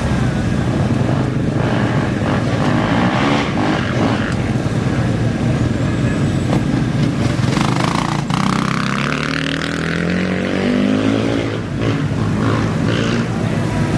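Off-road racing bike engines running and revving, with one engine climbing steadily in pitch from about eight seconds in as it accelerates away.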